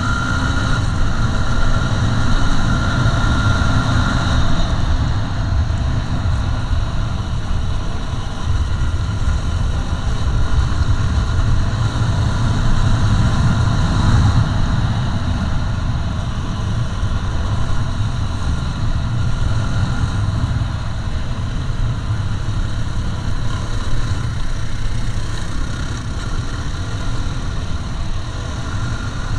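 Yamaha WR250R dual-sport motorcycle's single-cylinder engine running steadily, a dense low rumble with no break.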